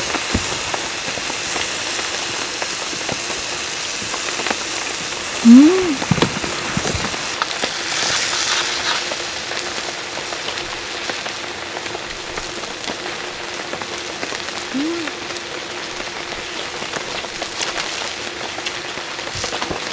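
Steady rain falling on surfaces. About five and a half seconds in, a sudden loud knock comes with a short rising-and-falling tone, and a fainter tone like it comes near fifteen seconds.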